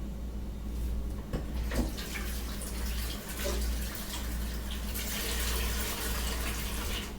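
Kitchen tap running with water splashing, heaviest near the end, with a couple of light knocks about a second and a half in, over a steady low hum.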